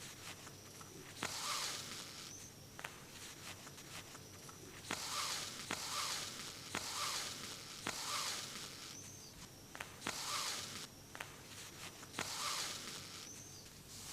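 Hand sewing on denim: thread repeatedly drawn through the fabric, each pull a soft hiss of about a second, some with a faint thin squeak of thread friction, between small clicks of the needle.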